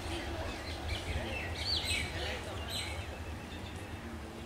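Birds chirping in short calls, several about a second and a half to three seconds in, over a steady low rumble.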